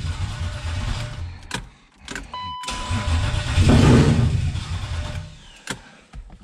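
Turbocharged BMW M52 straight-six cranked twice on the starter, with clicks and a short beep between tries. Each time it fires roughly and fades out without settling into an idle: it won't keep running with no throttle cable connected.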